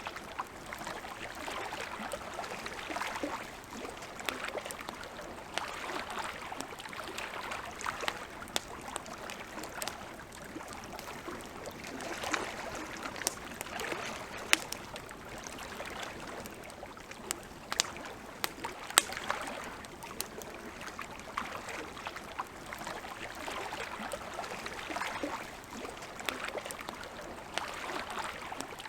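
Campfire crackling, with irregular sharp pops and snaps, the loudest two about midway, over a soft rushing of lake water lapping in slow swells.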